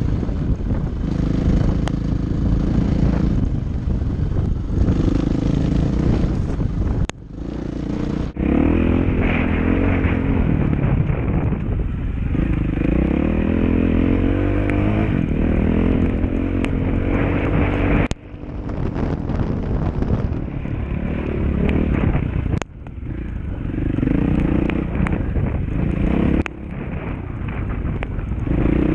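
Dirt bike engine running under riding, its note rising and falling as the throttle opens and closes. The sound breaks off suddenly several times and picks up again.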